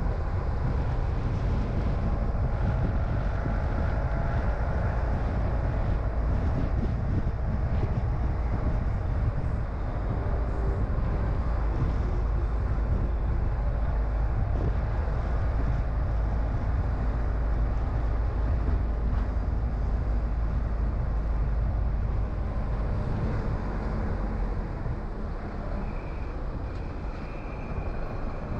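Steady low rumble of a car on the move: engine and tyre noise, easing slightly near the end.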